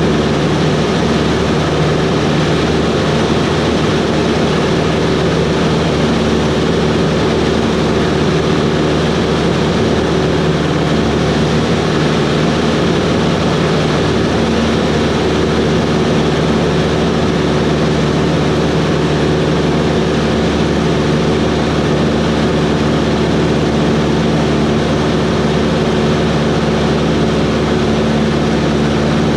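Cessna 140's engine and propeller running steadily in flight, a constant drone with a steady low hum and a noise wash, unchanging throughout.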